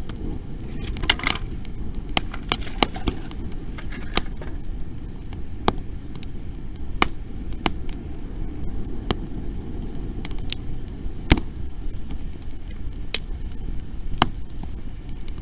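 Dry wood burning in an open bonfire, crackling with sharp separate pops every second or so over a steady low rumble.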